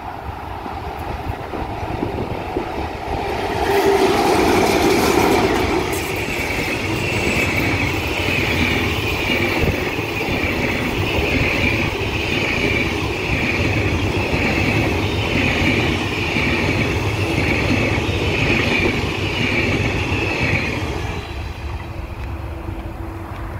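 The Blue Train, a long passenger train, passing close by at speed. It is loudest as the head end goes by about four seconds in, then runs on as a steady rumble of coach wheels on the rails with a regular repeating beat, and drops away as the last coach passes about twenty-one seconds in.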